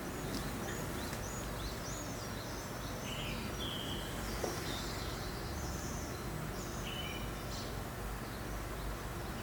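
Small songbirds chirping in short, scattered calls over a steady rush of breeze.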